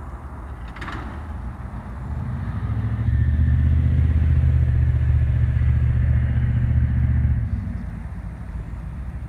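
An engine-driven vehicle passing close by: a low steady drone that swells over about a second, holds loud for about four seconds, then fades, over a low outdoor rumble. There is a single click about a second in.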